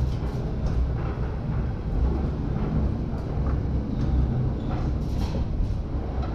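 Lausanne-Ouchy rack railway car running uphill on its cog track, heard from on board: a steady low rumble of the drive and wheels, with scattered clicks and rattles and a brief higher-pitched noise about five seconds in.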